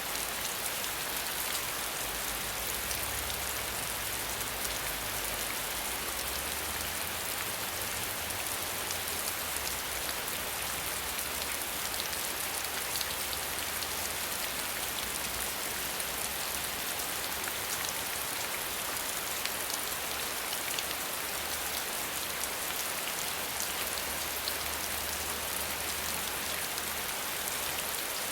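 Steady rain falling without thunder: an even hiss dotted with the fine patter of individual drops.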